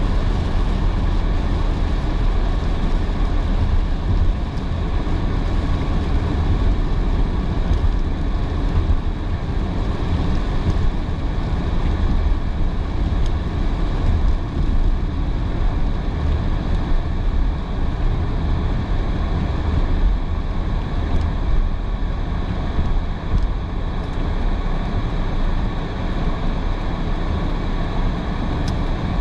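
Steady road noise of a car driving on a rain-soaked road: tyre rumble with the hiss of water spray under the tyres.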